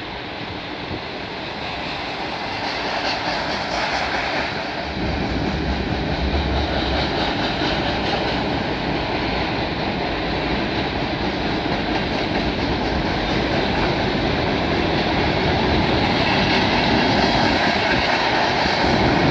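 Freight cars of a long CN freight train rolling across a steel girder overpass: a steady rumble and wheel noise that grows gradually louder.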